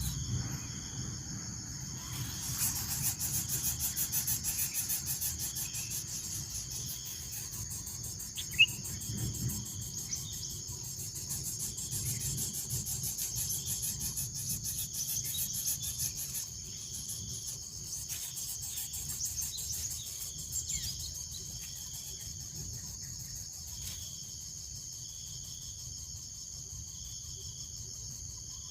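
Insects chirring in a steady, high-pitched chorus, with a rapid pulsing buzz that fades out partway through. One brief sharp sound stands out about eight and a half seconds in.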